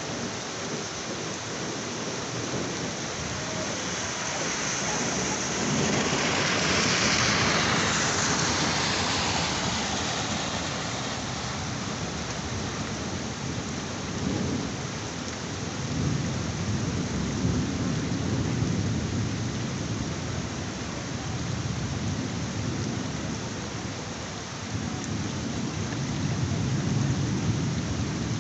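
Heavy rain falling steadily in a thunderstorm. Thunder swells and peaks about a quarter of the way in, then low rolling rumbles come and go through the second half.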